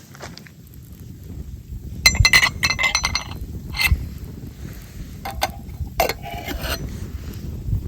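Hard items clinking and knocking together in a series of sharp clicks, some with a short ringing tone, over a steady low rumble.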